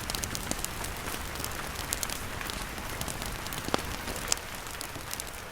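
Rain falling on a tent, a steady hiss dotted with scattered sharp clicks and cracks, slowly getting quieter.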